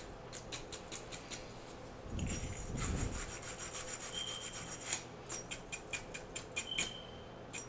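Wire brush scrubbing the solder sockets and rim of a brass Moen tub and shower valve body, in quick repeated scratchy strokes, with a denser stretch of rubbing about two seconds in. This cleans the metal so the solder will take.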